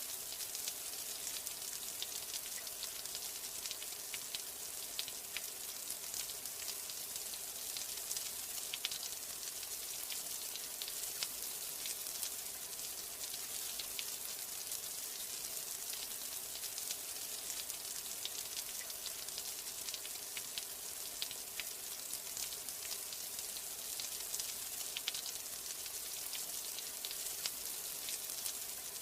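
Steady rainfall: a continuous hiss of rain with many small, sharp drop ticks scattered through it.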